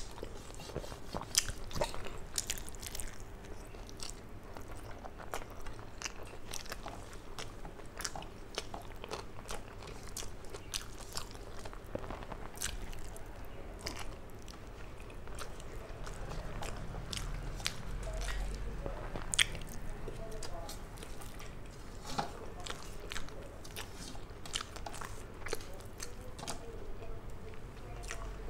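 Close-miked chewing and lip smacking of someone eating rice by hand: a steady, irregular run of sharp wet clicks. At times there are squishes of rice being mixed by hand on a steel plate.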